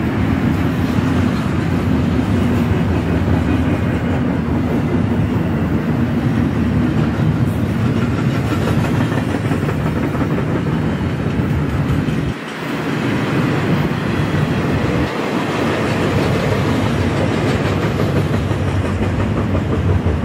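Double-stack container cars of a freight train rolling past on the rails, a continuous loud rolling noise that dips briefly twice, about twelve and fifteen seconds in.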